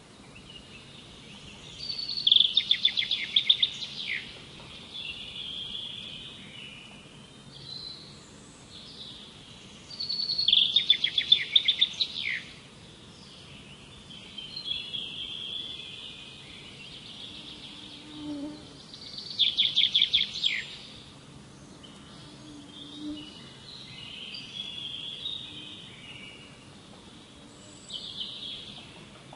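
Birdsong: a songbird sings a loud phrase of rapid, quick-fire notes three times, about eight seconds apart, with softer chirps in between.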